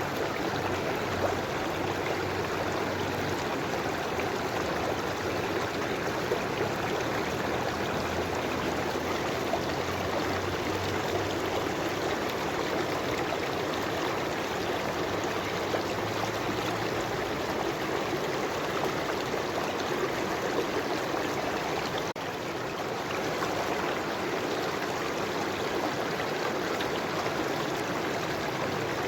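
River water flowing steadily, with one brief dip in level about three-quarters of the way through.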